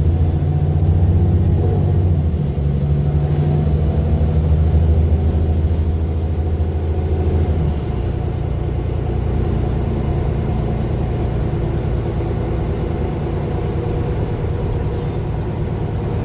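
Mercedes-Benz Citaro LE city bus's OM 457 hLA six-cylinder diesel running under load. About eight seconds in, the engine note drops to a lower, steadier drone.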